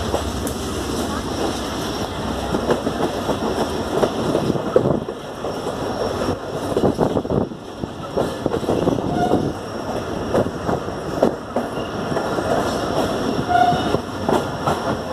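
Passenger train running along the track, wheels clattering and clanking over rail joints, heard from aboard the train, with a couple of short squeals from the wheels about nine and thirteen seconds in.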